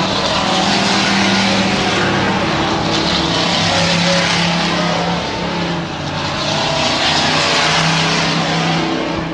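Stock trucks racing on a dirt oval, several engines running hard together with a loud steady din that swells and fades three times as trucks go past.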